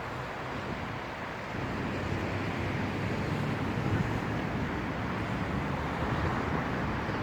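Strong gusty wind blowing, rushing across the microphone, growing a little stronger about a second and a half in.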